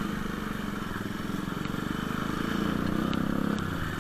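Motorcycle engine running steadily, rising a little in pitch and then easing near the end.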